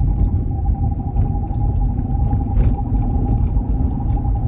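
Dodge Charger driving, heard from inside the cabin: low road and drivetrain rumble with a steady whining tone that is there only while the car is moving. The owner puts the noise on the right side and thinks it is a wheel well.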